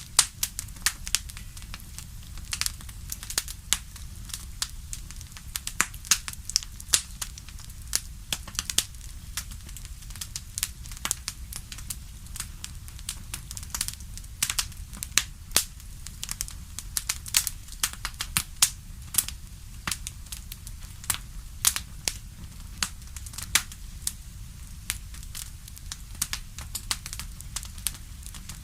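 Wood fire in a fireplace crackling, with irregular sharp pops, several a second, over a steady low rumble.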